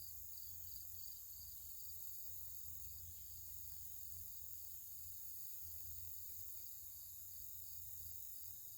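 Crickets chirping in a steady outdoor insect chorus: a pulsed chirp about four times a second that fades a few seconds in, over a continuous high-pitched trill, with a low hum beneath.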